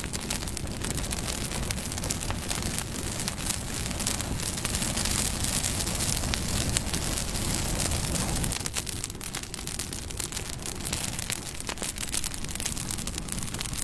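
Campfire burning: a steady rush of flame with many small crackles and pops throughout, a little fuller around the middle.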